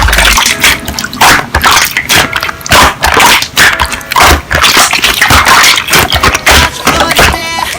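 Slime being squeezed and pressed by hand, making rapid, irregular wet clicks, pops and squishes.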